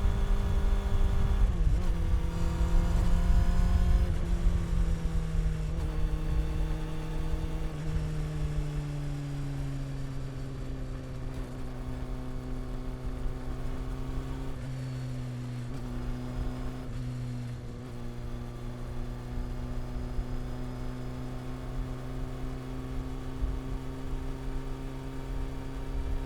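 Honda CB400 Super Four's inline-four engine and exhaust while riding. The engine note steps down in pitch several times in the first eight seconds or so, then runs at a nearly steady pitch, over a low rumble.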